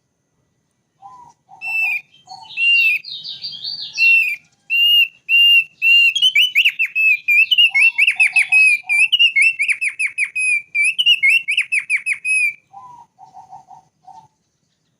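Thick-billed white-eye (opior paruh tebal) singing a long run of fast, clear whistled notes for about ten seconds, broken here and there by short clusters of lower notes.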